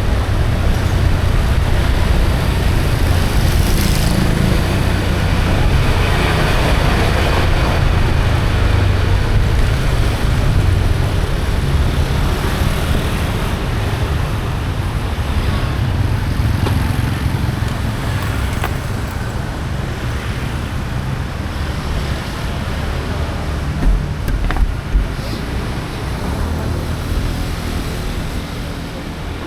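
Steady rumble of motor-vehicle traffic, with a couple of short sharp knocks about 24 seconds in.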